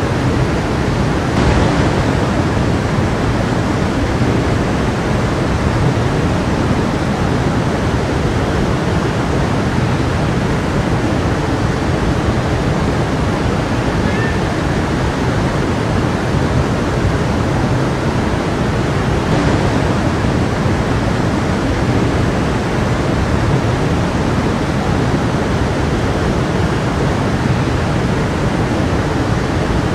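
Small stream flowing steadily, a continuous even rush of water.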